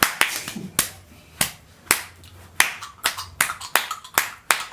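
A run of about a dozen sharp hand-made clicks, like snaps or claps, unevenly spaced and coming faster in the second half.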